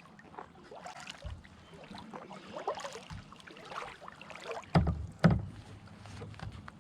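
Kayak paddle dipping and splashing in shallow water, with small clicks and knocks, and two loud hollow thumps about five seconds in as the paddle or debris strikes the kayak's hull.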